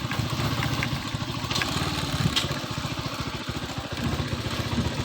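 Motorcycle engine running steadily, its rapid firing pulses plain throughout, with two brief sharp clicks about one and a half and two and a half seconds in.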